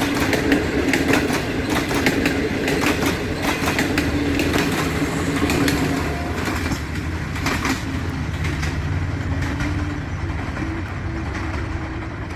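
A train rolling past on the track, its wheels clicking over the rail joints over a steady low hum. The clicks are dense for the first half and thin out after about six seconds.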